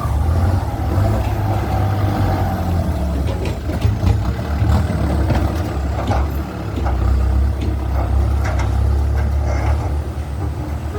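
Kubota M6240SUH tractor's diesel engine running steadily through a modified exhaust pipe, with a howl in its note. A few light clicks sound over it.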